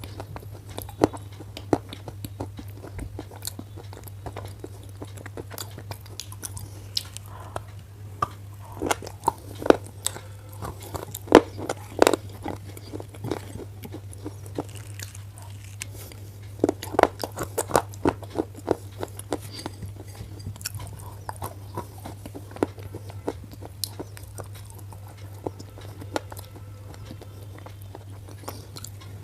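A black slate pencil being bitten and chewed, with sharp crunching snaps coming in clusters over a steady low hum.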